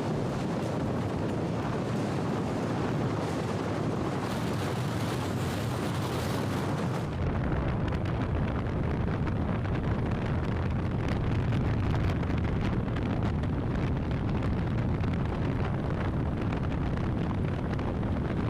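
Wind buffeting the microphone on a moving Yamaha FZ V2 motorcycle, with road and engine noise underneath. The noise is steady, and about seven seconds in it turns heavier and deeper.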